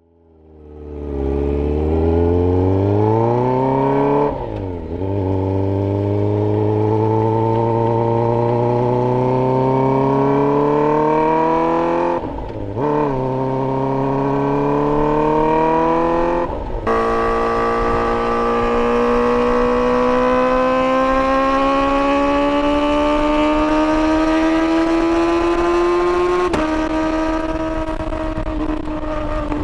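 Kawasaki ZX-4RR's inline-four through a Graves link header and Yoshimura AT2 slip-on exhaust, accelerating hard with its pitch climbing steadily. It dips briefly at four upshifts, about 4, 12, 17 and 27 seconds in.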